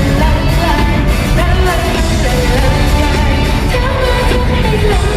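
Live pop band playing through a concert PA with a lead vocalist singing a melodic line over steady bass and drums.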